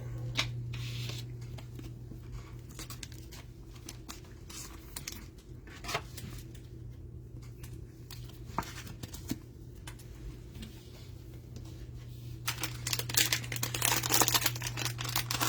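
Trading card hanger box packaging being torn open and crinkled: scattered light rustles and clicks, then a louder stretch of tearing and crinkling wrapper from about twelve seconds in, over a steady low hum.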